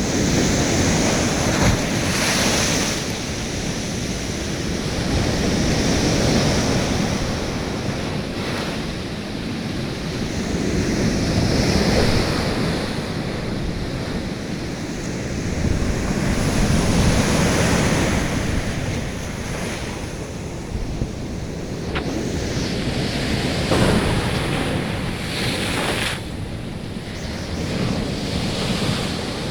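Storm-driven sea waves surging and breaking, their noise swelling and falling every five or six seconds, with strong wind buffeting the microphone.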